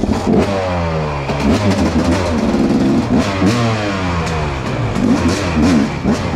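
Dirt bike engine revved up and down repeatedly, its pitch rising and falling several times in quick blips.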